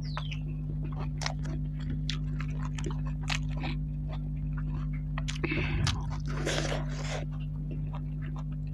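Close-up eating sounds: wet chewing, lip smacks and mouth clicks of someone eating spicy curry and rice by hand, with a longer hissing sound about five and a half seconds in. A steady low electrical hum sits underneath.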